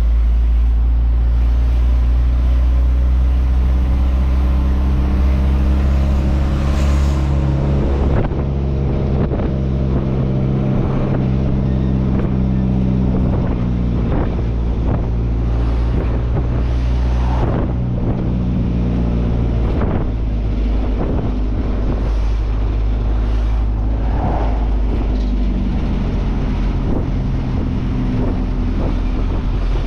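Truck engine running steadily while driving, with wind noise on the microphone. The engine note shifts in pitch about eight seconds in and again about twenty seconds in.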